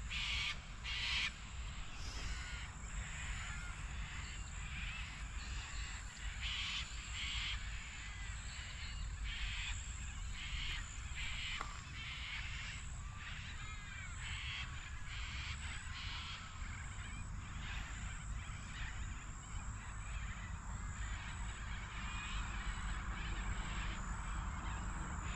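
Short, harsh bird calls repeated many times, with fainter chirps of small birds between them over a steady low rumble.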